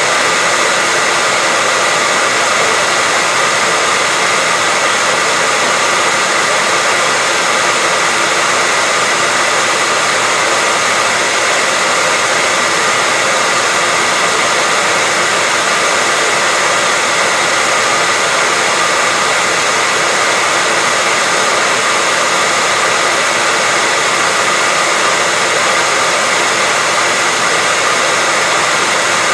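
Hair dryer running steadily: an even rushing of blown air with a faint steady whine from the motor.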